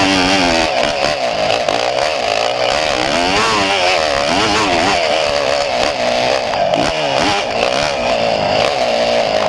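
Small engine running with its pitch rising and falling over and over as the throttle is worked.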